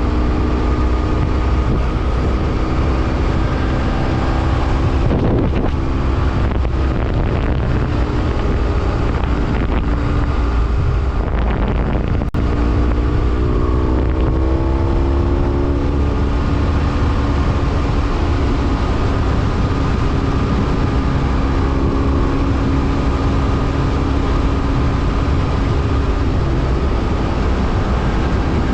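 BMW F800R's parallel-twin engine running under way, heard over wind rumble on the microphone. A short click comes just past the middle, then the engine note rises for a few seconds as the bike accelerates and settles into a steady cruise.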